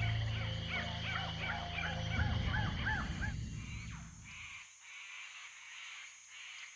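Rainforest night ambience: an animal gives a rapid series of short calls that rise and fall in pitch, about three or four a second, over a low steady hum. The calls stop after about three seconds, and the sound fades down.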